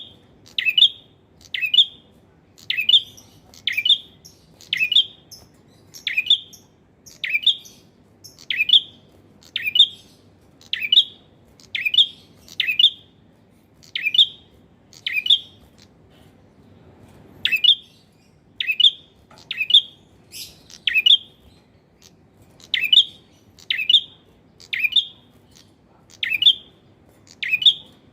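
Male prinia (prenjak) singing a loud, persistent run of short, sharp chirps, about one a second and often in quick pairs, with one short pause midway.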